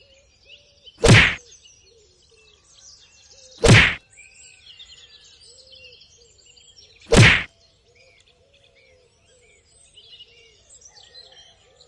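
Three sharp whack sound effects, each short and spaced a few seconds apart, each marking a miniature pillar popping into place in the sand. Faint birdsong runs underneath.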